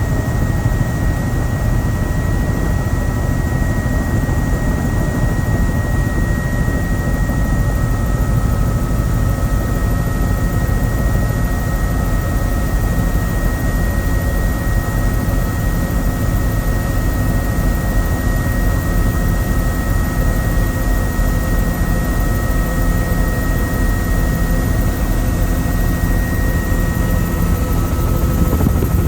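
Helicopter in steady flight: constant rotor and turbine noise with a steady high whine over a deep rumble.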